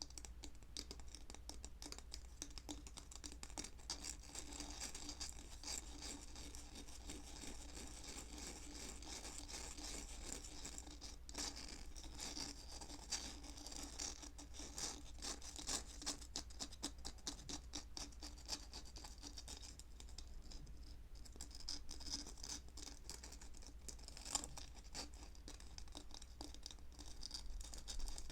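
Close-miked scratching, a dense, continuous run of quick short strokes, played as an ASMR trigger.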